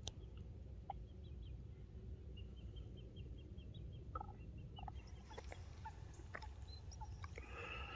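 Birds calling faintly over a low steady rumble: a quick run of high chirps a couple of seconds in, scattered short calls after that, and a louder call with several pitches near the end.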